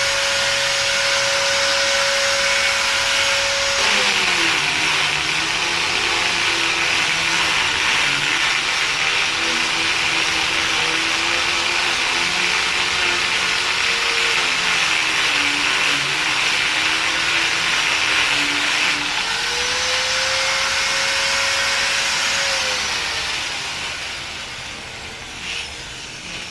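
An electric power tool's motor running with a loud hiss. Its pitch drops and wavers under load for about fifteen seconds, rises back when the load comes off, then winds down as it is switched off near the end.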